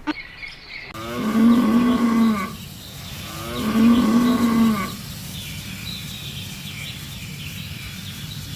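Cow mooing twice, two long calls about a second apart, over a steady background hiss.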